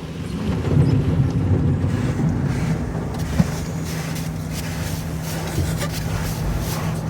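Autec EV-1 touchless car wash working over the car, water spraying against the body with a steady mechanical rumble, heard from inside the car. A steady hum comes in about three and a half seconds in.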